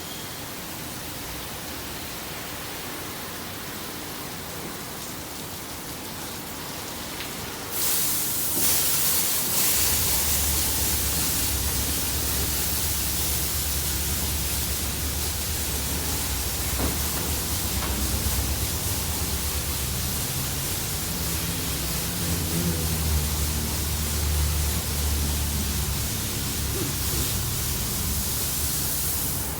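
Ryko SoftGloss Maxx 5 automatic car wash running with a steady hiss. About eight seconds in, a much louder rushing noise starts, joined a moment later by a low hum, and both drop off sharply at the end.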